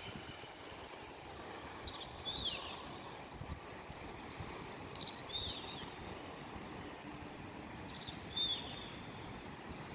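A bird calls three times, about three seconds apart, each a short high call that rises and then falls, over a steady outdoor hiss.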